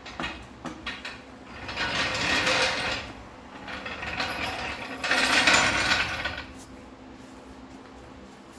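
Granular absorbent litter scattering and rasping over spilled engine oil on a hard floor, in two long noisy passes after a few sharp clicks.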